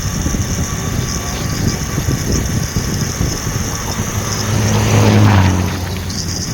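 Motor vehicle engine running with a steady low rumble. About four seconds in, a low steady drone comes up over it for nearly two seconds, then drops away.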